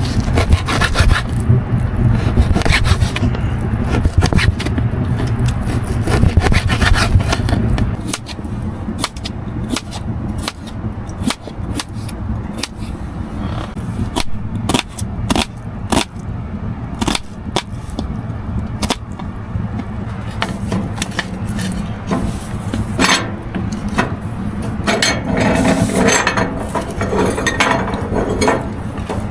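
Repeated scraping and rubbing on wood, with many short clicks; a deep rumble underlies the first eight seconds.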